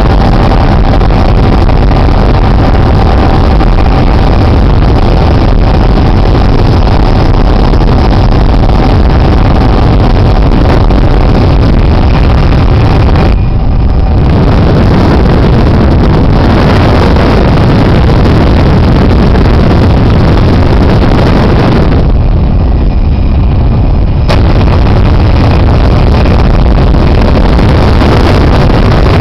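Helicopter engine and rotor noise heard from inside the cabin: loud and steady, with a faint steady whine through the first twelve seconds or so. It goes briefly duller twice.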